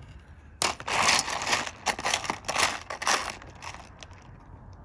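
Rough opal pieces being rolled and stirred around in a dish, a run of gritty scraping and rattling for about three seconds that dies down near the end.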